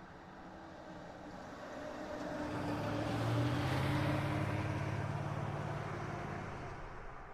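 A heavy diesel vehicle's engine drives past, growing louder to a peak about three and a half seconds in, then fading away.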